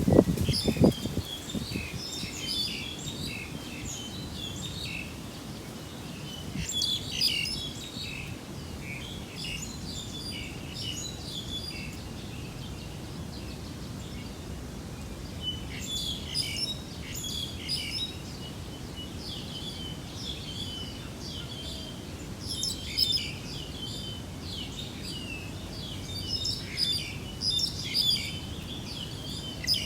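Birds chirping and calling in repeated clusters of short, high notes, over a steady low background hiss; a dull low thump right at the start.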